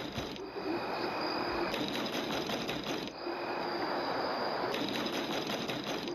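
Rapid knocking at a door in two bursts of about a second and a half each, one about two seconds in and one near the end.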